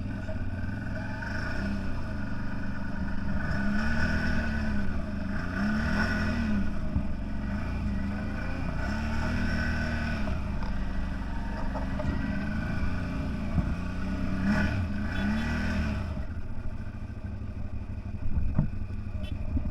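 CFMoto 1000 off-road vehicle's engine running under varying throttle, its pitch rising and falling back again about six times as it is driven.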